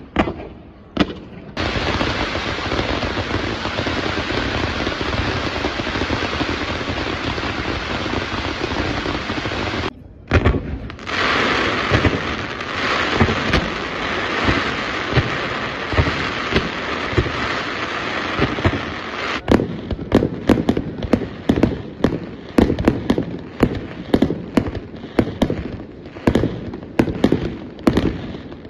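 1.3G display fireworks going off: a dense, continuous crackle of rapid reports, broken by a short pause about ten seconds in, then separate sharp bangs at about two or three a second in the last third.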